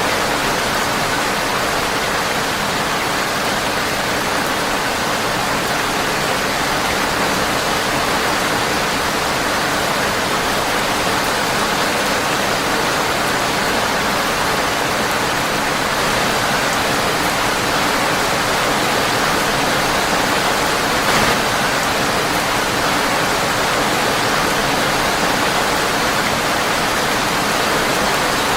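Steady rain on a windowpane, a dense, even hiss with no let-up, with a single brief crack about three quarters of the way through.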